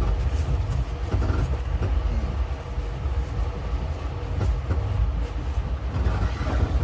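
Steady low rumble of a moving passenger train heard from inside the carriage, with a few light clicks and knocks.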